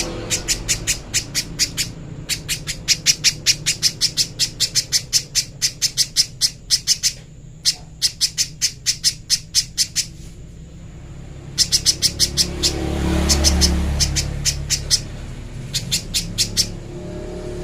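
Spiderhunter calling a rapid series of sharp, high chips, about five a second, in long runs broken by two short pauses.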